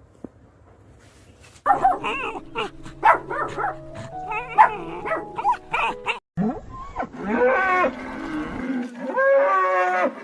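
Cattle mooing: a quick run of calls starts about a second and a half in, then longer drawn-out moos that rise and fall in pitch. Background music with steady held notes plays underneath.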